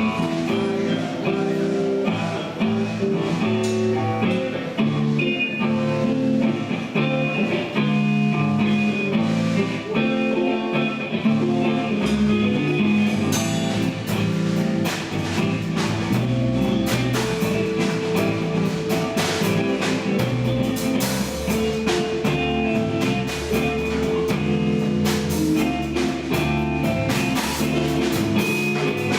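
A band playing guitar-led blues-rock. At first there is guitar alone; a bass comes in about twelve seconds in, and drums with cymbals join soon after.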